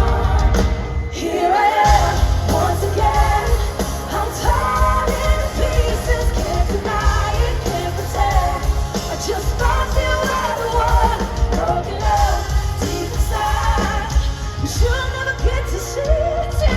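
Live pop-rock concert music: a singer over a full band with heavy bass, heard through an arena's sound system. The bass drops out briefly about a second in.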